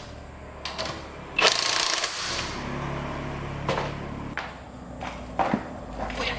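Workshop tool work on engine parts: several sharp, irregularly spaced knocks and clanks, with a brief rushing burst about a second and a half in and a low hum through the middle.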